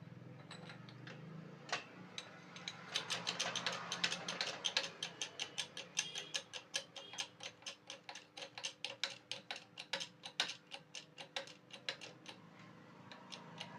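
Hand-pumped hydraulic press clicking rapidly and evenly, about four clicks a second. It starts a couple of seconds in and stops near the end, as it pushes a table fan motor's shaft further through.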